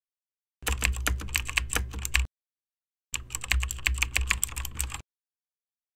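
Computer keyboard typing: two bursts of rapid key clicks, each about two seconds long, with dead silence between them.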